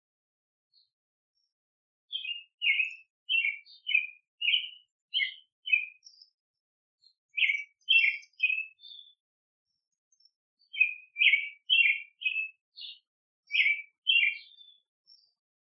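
Small songbird chirping: short, sharp chirps about two a second, in three runs with brief pauses between them.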